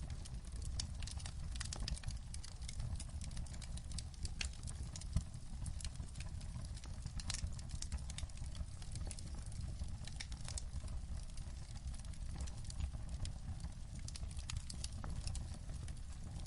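Wood fire crackling in a fireplace: irregular sharp pops and snaps over a steady low rumble, with one louder pop about five seconds in.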